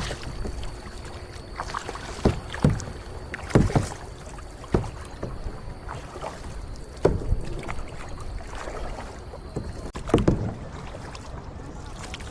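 Kayak paddle strokes in the water: short splashes and thumps every second or two at an uneven pace, over a steady low background wash.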